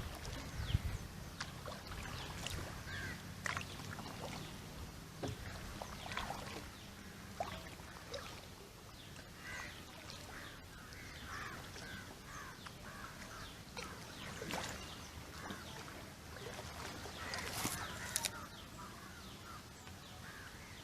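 Water splashing and lapping around a kayak on a river, in scattered small splashes, with birds calling in the background. A low rumble fades out about a third of the way in.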